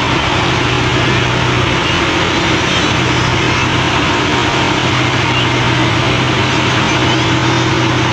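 Diesel engine of a multiple tie tamper (MTT) track-maintenance machine running steadily, a constant drone with a low hum under dense broad noise.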